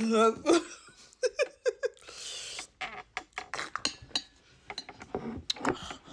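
A person's short whimpering vocal sounds, four quick pulses in a row and a hissing breath out, reacting to a mouth burning from spicy noodles, followed by a run of light clinks and taps of cutlery against dishes.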